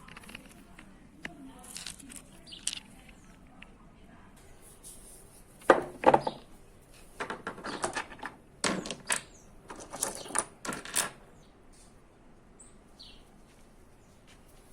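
Small hard objects clinking and knocking together as they are handled, in several quick clusters about six to eleven seconds in, with a few lighter ticks before.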